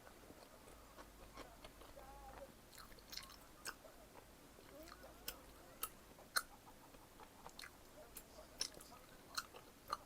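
A person chewing pizza close to the microphone, with scattered sharp wet mouth clicks.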